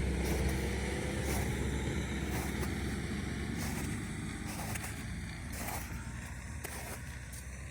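Snowmobile engine running steadily, growing gradually fainter as it moves away, with a few light clicks and knocks.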